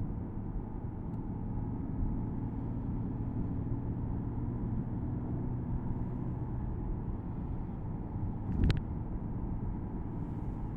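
Porsche Boxster S 987.2's 3.4-litre flat-six engine running steadily while driving, heard from inside the cabin with road noise. Its engine note eases off about two-thirds of the way through. A single sharp knock comes near the three-quarter mark.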